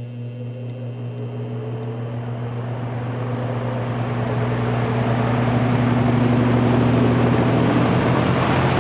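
Vintage General Electric F15W13 box fan starting up on high speed: a steady motor hum under rushing air that builds as the blades spin up, levelling off about six seconds in.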